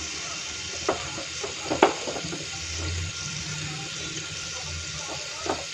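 Crushed ginger and garlic sizzling in hot oil in a pressure cooker: a steady hiss with three sharp crackles, the loudest a little under two seconds in.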